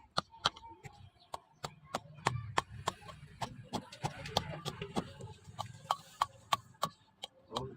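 A rapid run of sharp, short strikes, about three to four a second, over a faint low hum.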